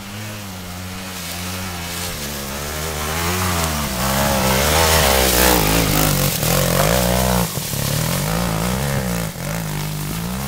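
Trail motorcycle engine revving up and down under load, getting louder to a peak in the middle, with two brief cuts in throttle near the end.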